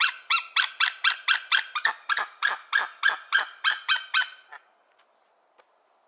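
Hawk calling a rapid, even series of short notes, each falling in pitch, nearly four a second; the calls stop about four and a half seconds in.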